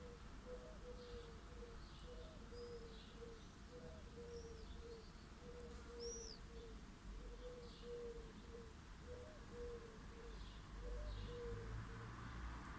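Birds chirping and whistling over a steady run of short, low, hooting notes, about three a second. A faint low traffic rumble swells near the end.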